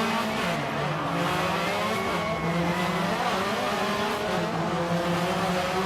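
Rally car engine running at high revs, its pitch rising and falling as it accelerates, over a dense wash of noise.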